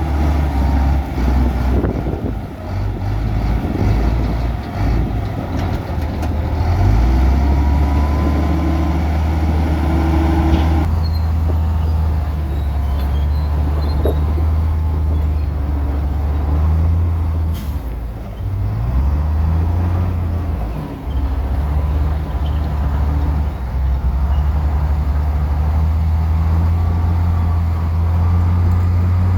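Heavy diesel earthmoving machinery running, a deep engine note that steps up and down in pitch as the machine works.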